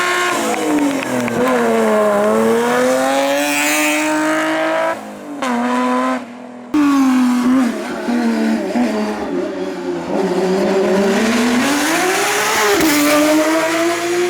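Competition car's engine at full throttle, revs rising and falling through gear changes and corners. The sound drops away briefly twice near the middle.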